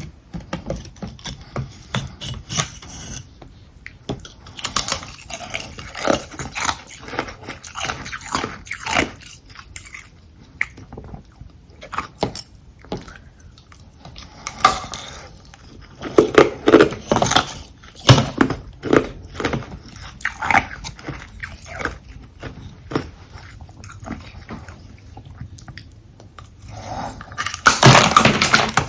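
Close-up biting and chewing of frozen carbonated-water ice: many sharp crunches and cracks in irregular clusters, with the loudest, densest crunching near the end.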